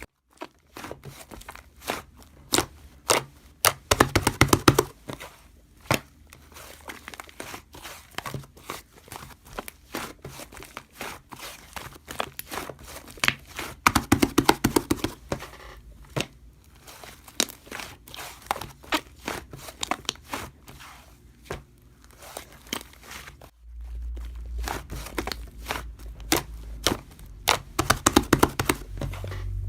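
Pink slime being squished and played with by hand, giving many quick clicks and pops, with several dense runs of rapid clicking.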